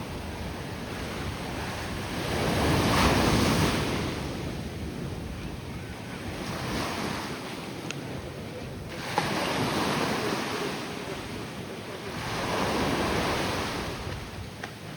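Ocean surf breaking and washing up the beach, swelling and fading every few seconds, with some wind on the microphone.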